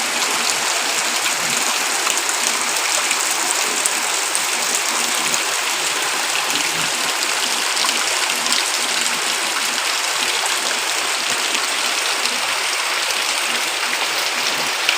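Heavy rain falling in a steady downpour, a dense even hiss.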